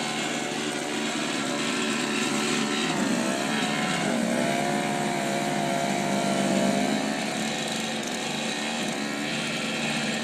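Snowblower's small gasoline engine running steadily, its pitch wavering up and down for a couple of seconds near the middle.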